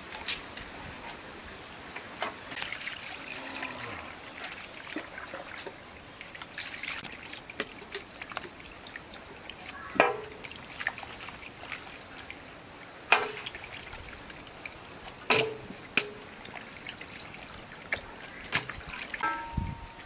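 Water trickling and splashing, with several sharp clinks that ring briefly, the loudest about halfway through, a few more in the later half, and a short ringing tone near the end.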